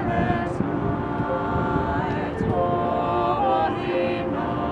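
Several voices singing together in long held notes, over a steady low background noise.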